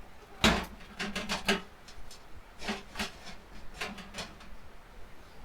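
Hard objects being handled and set down: a sharp knock about half a second in, then a run of lighter clatters and taps spread over the next few seconds.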